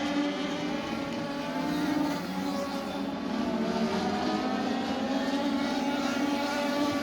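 INEX Legends race car engine running at speed on the track, its pitch rising and falling gently as it laps.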